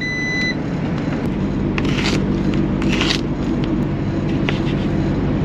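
Truck engine idling with a steady low hum, with several short scrapes and clicks of handling over it.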